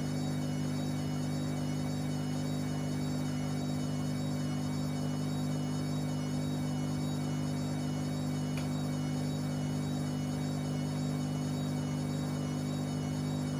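Whirlpool AWM 864 Aquaprogramm washing machine running with a steady, even motor hum.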